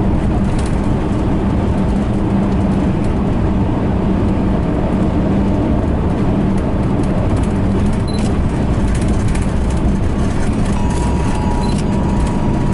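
Steady engine hum and road noise heard from inside a moving car.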